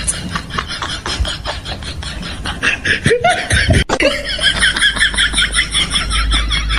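Rapid, rhythmic snickering laughter, with a short pitched cry that rises and falls about three seconds in.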